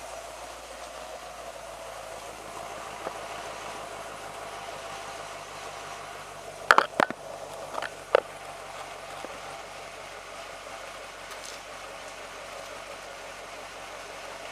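2011 Camaro SS 6.2 L V8 on its stock exhaust, idling steadily. A few loud, sharp knocks come about halfway through.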